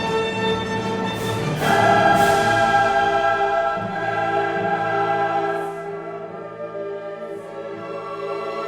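Background choral music with orchestra: a choir singing long held chords, swelling about two seconds in and growing softer after about six seconds.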